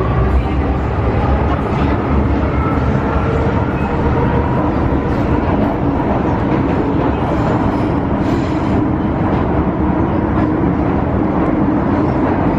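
MTR Tsuen Wan Line M-Train running at speed through an underground section, heard from on board. A steady heavy rumble of wheels on rail, with faint whining tones from the traction motors that drift slightly in pitch.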